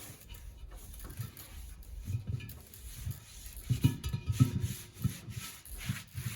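Rag wiping out the inside of a truck brake drum, irregular rubbing with soft knocks as the drum is handled, heaviest about four seconds in.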